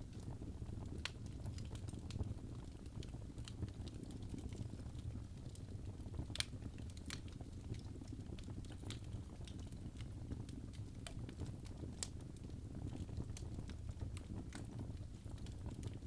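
Fire burning in a fireplace: a steady low rumble of flames with irregular sharp crackles and pops, the loudest about six and twelve seconds in.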